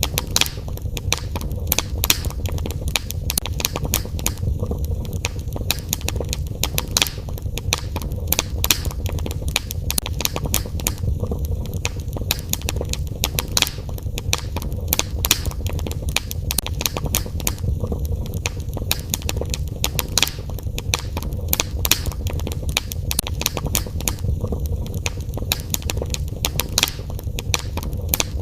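Fire crackling in a fireplace: frequent sharp pops and snaps over a steady low rumble.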